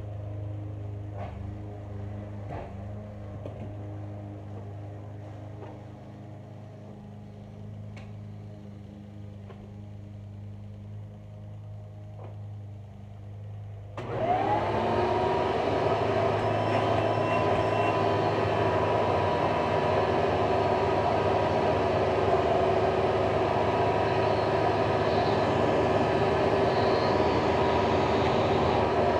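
A low steady hum with a few faint clicks, then about halfway through an upright vacuum cleaner (a 1998 Hoover Soft and Light, 7 amps) is switched on: its motor whines up to speed in about a second and then runs loud and steady.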